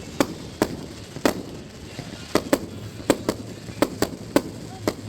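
Fireworks bursting overhead: a quick, irregular run of about ten sharp bangs, some in close pairs.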